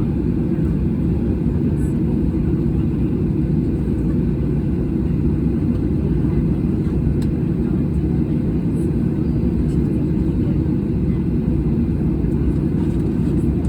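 Airliner cabin noise heard from a passenger seat: a steady low rumble of the jet engines and airflow, even throughout.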